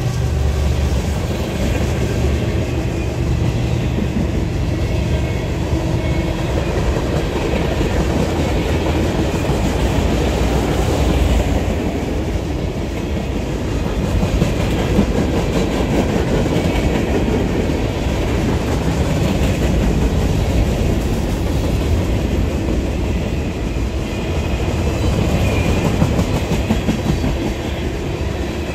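Train cars rolling past close by, their steel wheels clacking steadily on the rails over a continuous low rumble.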